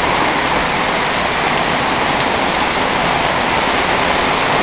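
Heavy rain driven by a strong windstorm: a loud, steady rush of noise without breaks.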